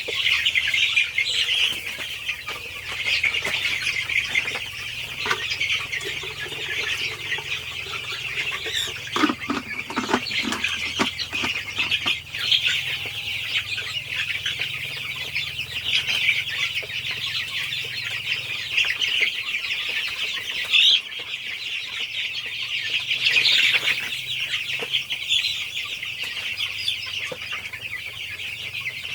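A crowd of young chicks peeping continuously, many high calls overlapping, over a faint steady low hum.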